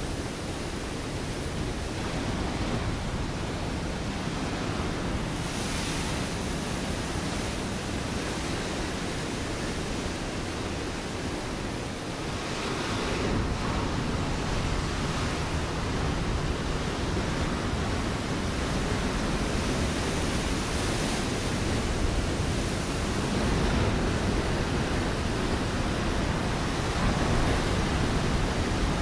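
Ocean waves breaking against a rocky shore: a continuous rush of surf, with swells breaking a little louder about six seconds in, around thirteen seconds, and again in the second half.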